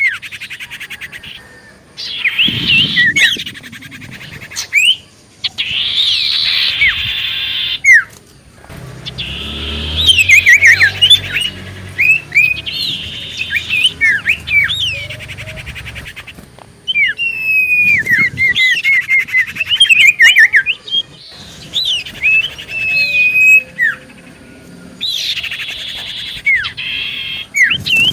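Common iora (cipoh) singing: rapid runs of high chirps and quick rising and falling whistles mixed with buzzy trills, in bursts separated by short pauses.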